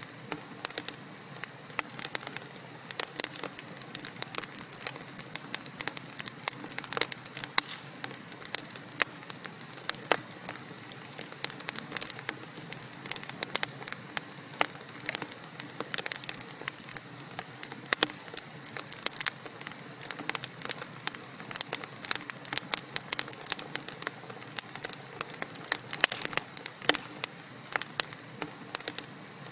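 Wood fire of burning logs in a fireplace crackling steadily, with frequent irregular sharp pops and snaps over a soft low hiss of the flames.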